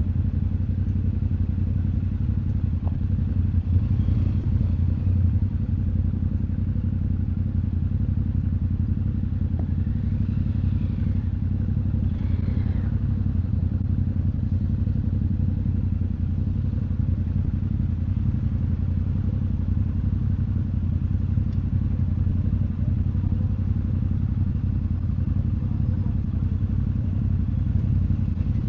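Yamaha Ténéré 700 parallel-twin engine running steadily at an even, low engine speed while riding in traffic, heard from on the bike. A faint higher sound rises and falls about halfway through.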